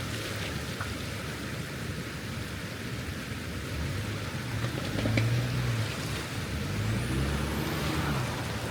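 A 4x4's engine running at low speed on a rough trail, its pitch rising and falling as the throttle changes, over a steady hiss.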